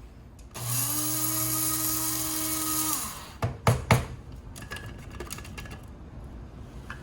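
Electric coffee grinder running for about two and a half seconds with a steady whirring hum, then winding down, followed by a few sharp knocks.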